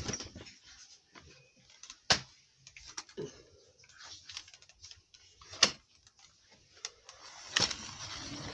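Scattered knocks and clicks, a few seconds apart, with a rustle near the end, as an upright vacuum cleaner is carried awkwardly by hand and bumps about.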